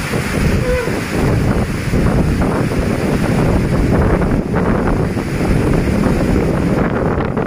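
Storm wind rushing and buffeting the microphone, a loud, uneven roar of noise that swells and dips.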